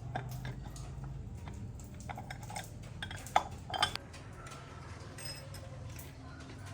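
Metal tools and engine parts clinking and tapping against each other, with a few sharper clinks in the middle. Under them runs a steady low hum.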